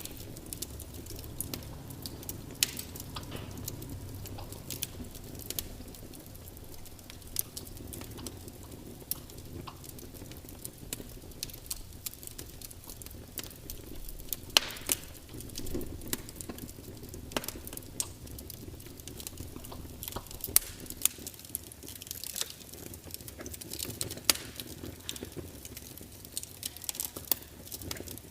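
Log fire crackling: a low steady rumble of burning, with irregular sharp crackles and a few louder pops from the wood.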